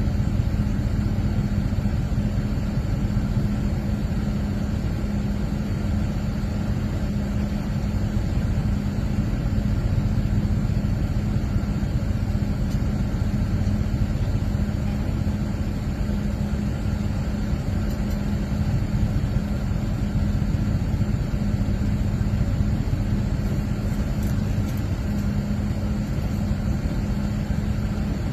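A vehicle engine running steadily at a constant speed, with no revving.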